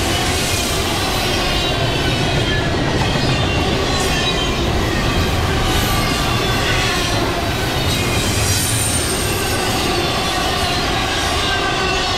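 Intermodal freight train cars rolling past close by, a steady loud rumble of wheels on rail, with faint high wheel-squeal tones drifting over it.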